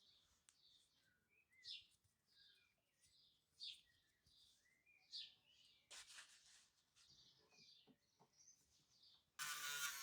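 Faint bird chirps, short calls repeated about once a second, with a brief noisy burst about six seconds in. Music starts just before the end.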